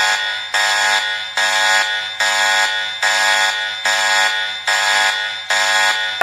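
Emergency alert alarm: a buzzy electronic beep repeating about once every 0.8 seconds, roughly eight times, each beep fading before the next. It is given as Rio Grande do Sul's alert tone, which the uploader is unsure is genuine.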